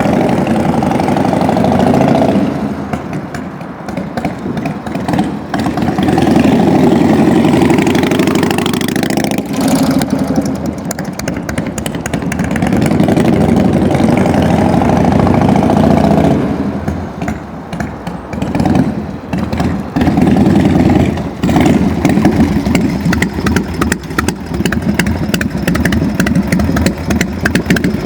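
1992 Harley-Davidson FXSTS Springer Softail's Evolution V-twin engine running: it is revved up and let fall back several times, then idles with an even, pulsing beat for the last several seconds.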